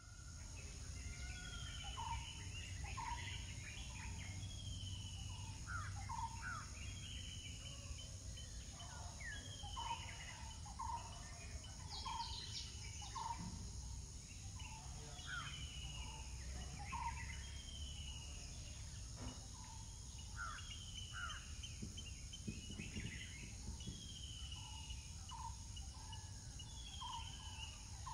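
Several birds calling repeatedly, a mix of short downward-sliding chirps and short clipped notes, over steady low background noise.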